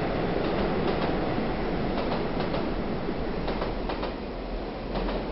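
Model train running on its track: a steady rumble of small wheels with light, irregular clicks as they pass over the rail joints.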